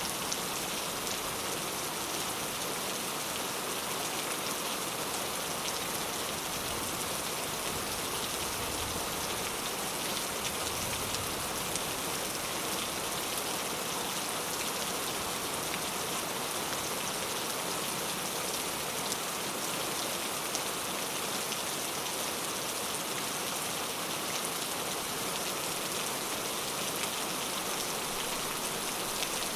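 Steady rain falling on a palm-leaf (coconut-leaf) thatched roof: an even, unbroken hiss with scattered small drop ticks.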